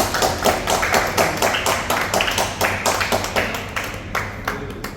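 A small group clapping their hands in quick succession, the claps thinning out near the end.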